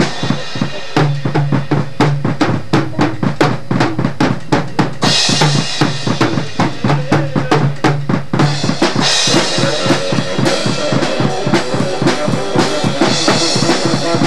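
Drum kit played fast, with quick even drum hits and crash cymbals about five, nine and thirteen seconds in, over held low notes from another instrument.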